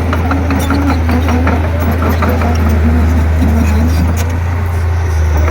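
Komatsu D31P crawler bulldozer's diesel engine running steadily under load, with many short clanks and clicks from the machine as it works.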